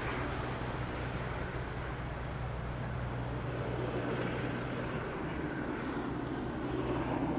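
Steady engine drone: a low, even hum with a broad rushing noise over it.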